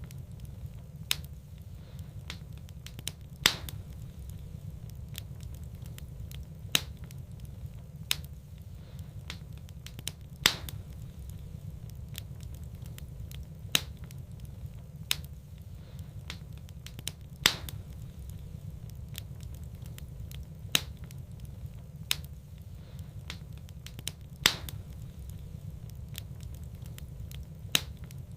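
Wood fire burning in a fireplace, crackling with sharp single pops every one to three seconds over a steady low rumble.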